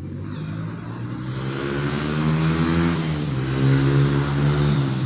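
A vehicle engine running steadily, growing louder over the first four seconds.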